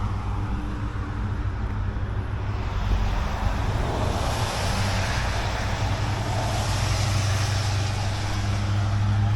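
Road vehicle noise: a steady low engine hum, with a hiss of traffic building from about three seconds in.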